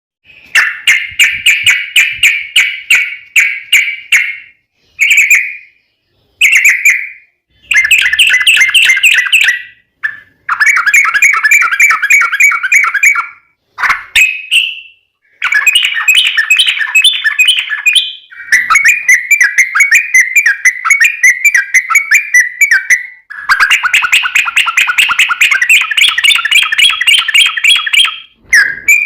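Yellow-vented bulbul (trucukan) singing long, rapid chattering phrases of quick repeated notes, in bouts of a few seconds separated by brief pauses.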